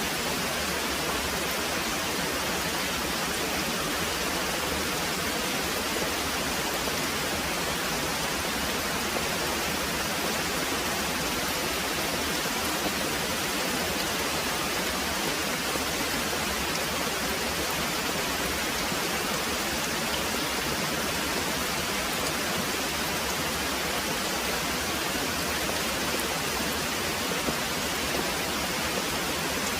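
Very heavy rain pouring steadily, an even, unbroken hiss.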